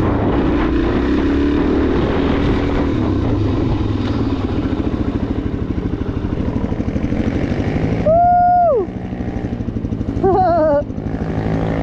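Suzuki DR-Z400SM single-cylinder motorcycle engine running under throttle, pulsing as it rides over rough ground. About 8 seconds in comes a held high call that drops away, then a short warbling whoop.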